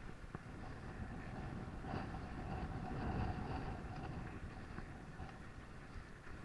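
Wind buffeting the microphone over road and traffic noise while cycling, with a vehicle passing that swells about two seconds in and fades again by about four seconds.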